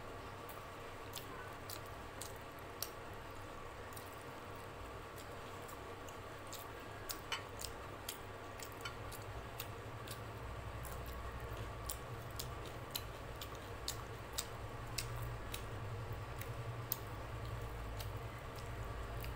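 Close-miked chewing, lip smacks and small wet mouth clicks of a person eating luchi and potato curry by hand. The clicks are scattered and come more often after about seven seconds, over a steady low hum that grows a little louder in the second half.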